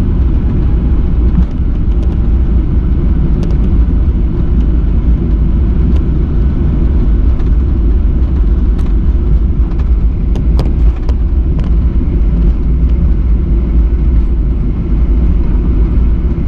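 Steady low rumble of a Boeing 737 airliner heard from inside the passenger cabin, with faint scattered rattles from the cabin fittings.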